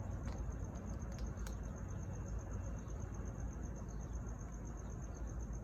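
High-pitched insect trill pulsing rapidly and evenly without a break, over a steady low rumble, with a few faint clicks in the first second and a half.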